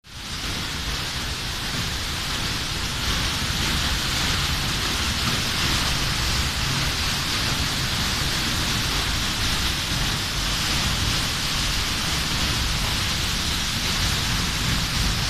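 Waterfall rushing: a steady roar of falling water with a low rumble beneath, fading in over the first half second.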